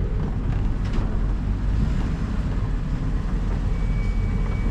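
Steady low rumble of a vehicle on the move, with a faint thin high tone near the end.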